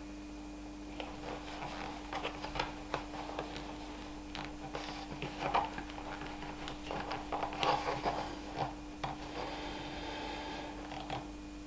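Light handling sounds: scattered small clicks, taps and rubs over a steady low hum, with a brief squeak a little after the middle.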